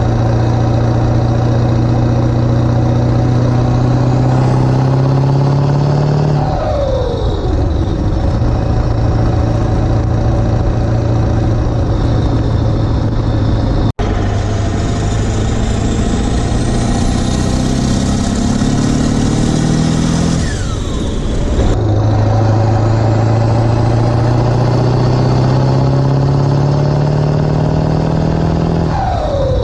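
Ford 7.3 Powerstroke turbodiesel V8 with 160/30% injectors, pulling under acceleration through its exhaust stack. The engine pitch climbs, falls sharply at each gear shift, and climbs again, three times over. A high whistle rises along with the revs.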